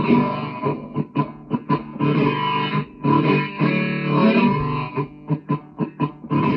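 Electric guitar music, with held chords broken twice by runs of short, choppy stabbed chords.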